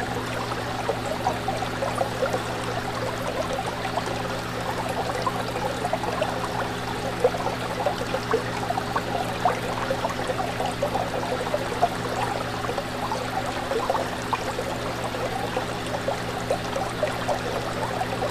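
Fish tank water trickling and bubbling in a steady, dense patter, over the constant low hum of the tank's pump.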